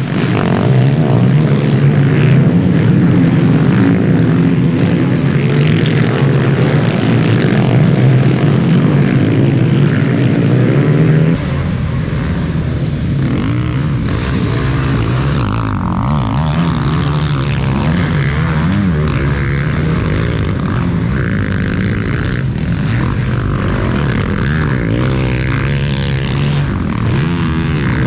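Motocross dirt bike engines running on the track, a continuous loud drone that rises and falls as the bikes rev. The sound changes abruptly about eleven seconds in, with more low rumble after.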